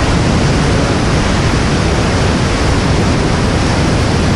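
Whitewater river rapids: a loud, steady rush of churning water.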